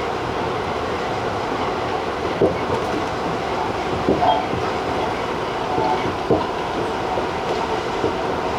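Tobu 50090-series electric train running at speed: a steady rolling rumble, with a few sharp clacks of the wheels over rail joints, two of them in quick succession about four seconds in.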